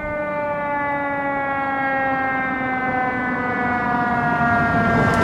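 Fire truck siren sounding one long wail, its pitch falling slowly and steadily while it grows louder as the truck approaches.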